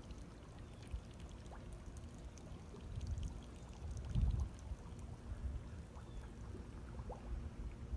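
Water sloshing, with a couple of dull low surges and many faint scattered clicks and pops, from mullet at the water's surface.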